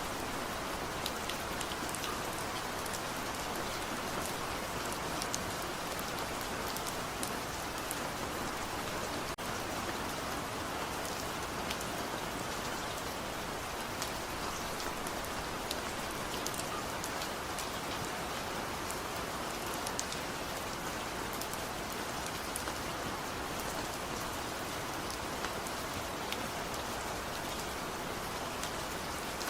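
Steady rain falling, an even hiss with scattered individual drops ticking on a surface and no thunder.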